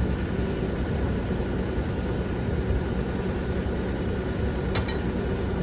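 Truck engine running steadily with a low, even rumble, and a short click near the end.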